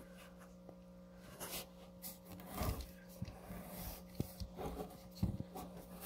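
A portable misting fan being handled: scattered light knocks and rubbing of its plastic body and water tank, over a faint steady hum.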